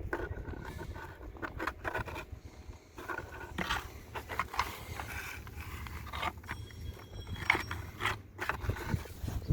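Irregular scraping and clicking of a plastic irrigation valve box and its lid being handled and opened.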